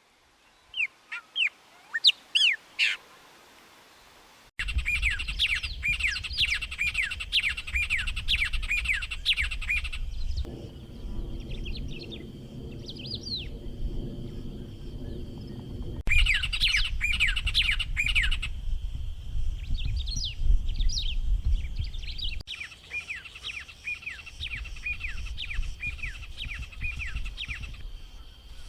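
White-rumped tanagers singing: fast runs of short, sharp downslurred notes, repeated over and over. The takes are cut together, and most carry a low rumble underneath.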